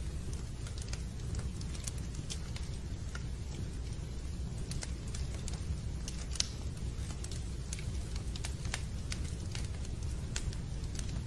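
Fireplace fire crackling: scattered sharp pops and clicks at irregular times over a steady low rumble.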